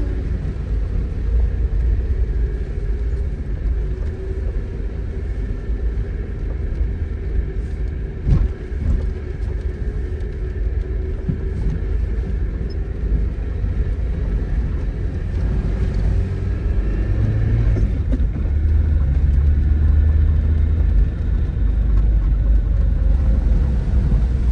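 Tofaş Doğan SLX engine running with a steady low rumble, mixed with the hiss of rain. There is a sharp knock about eight seconds in, and the engine gets louder for a few seconds near the end.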